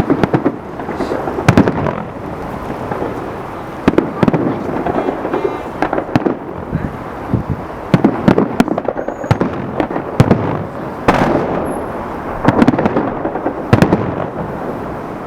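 Fireworks salute going off: a run of loud sharp bangs at uneven gaps of about half a second to two seconds, each trailing off in a rumbling echo.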